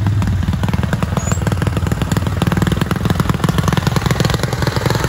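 Small lawn-tractor engines running under load as they crawl over rocks, with a rapid, even stream of firing pulses.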